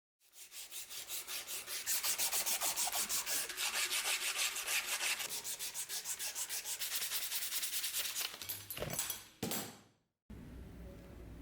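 Hand sanding: quick, even back-and-forth rubbing strokes, about six a second, then two short knocks near the end.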